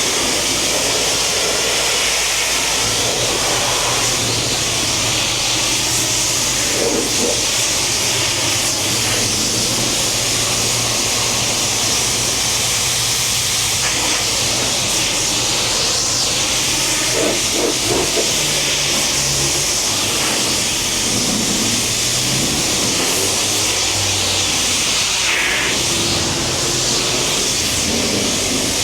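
Steady hiss of a pressure washer's water spray rinsing soap off a car, with a low motor hum beneath it.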